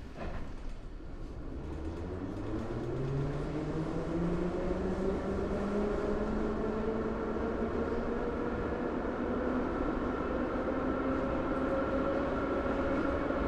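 Subway train accelerating: the electric traction motors whine, rising in pitch over the first few seconds and then holding steady, over a low rumble.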